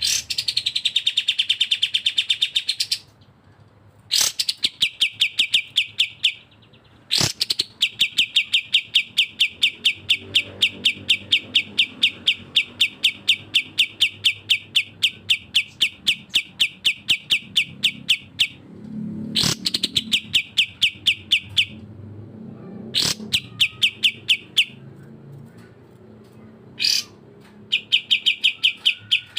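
A songbird sings rapid-fire trills: one short note repeated about five times a second in bouts of a few seconds, one bout running on for about eleven seconds. A few sharp clicks cut in between the bouts.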